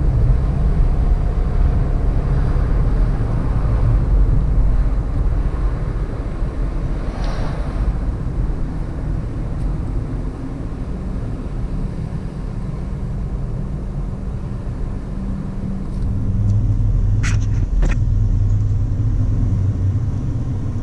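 A car being driven, heard from inside the cabin: steady low engine and road rumble, with two brief sharp clicks or knocks near the end.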